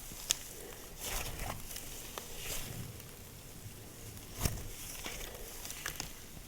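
Hands squishing and poking slime: soft sticky squelches broken by irregular small clicks and pops, the sharpest about a third of a second in and at about four and a half seconds.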